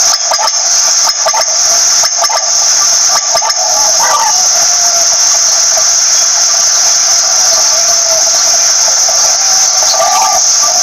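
Quail calling in short, sharp notes about once a second over a steady high hiss; the sharp calls fall in the first few seconds.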